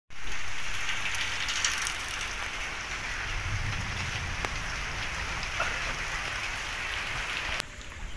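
Heavy rain falling steadily, a continuous hiss of rain. It becomes quieter near the end.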